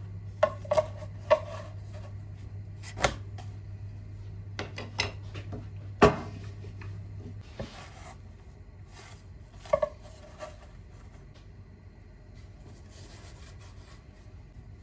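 Kitchen utensils and dishes being handled during cooking: scattered light clinks with a short ring, and a couple of sharper knocks on the counter. Underneath is a low steady hum that stops about halfway through.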